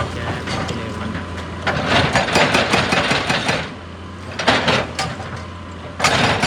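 Excavator engine running steadily, with irregular bursts of clattering and crunching over it.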